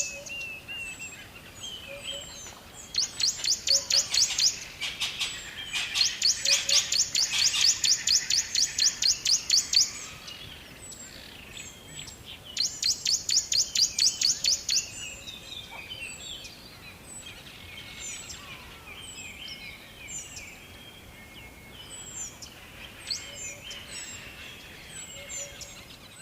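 Several birds singing, with one bird giving a loud, fast trill of rapidly repeated high notes three times, each burst lasting a few seconds. Many short chirps and whistles from other birds run underneath.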